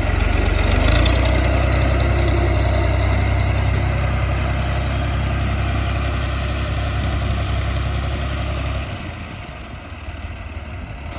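Diesel farm tractor engine running hard and loud under load, then dropping back to a lower, quieter run about nine seconds in.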